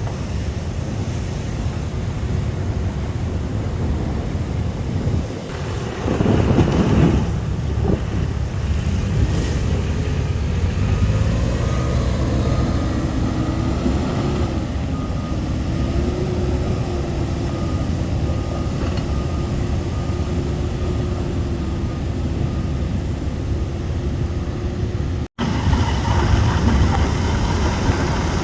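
A vehicle driving, with steady road and engine noise and wind on the microphone, and a louder swell about six seconds in.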